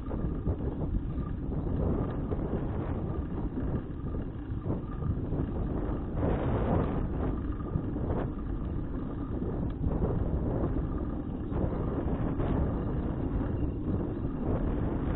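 Wind buffeting an action camera's microphone during a bicycle ride: a steady, uneven low rush of noise.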